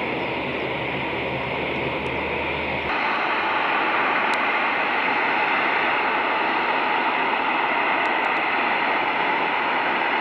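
Steady rushing noise. An open radio carrier with a low hum cuts off about three seconds in, and the rushing carries on slightly louder.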